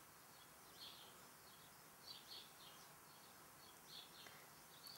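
Near silence, with faint, short, high chirps of small birds repeating every half second or so.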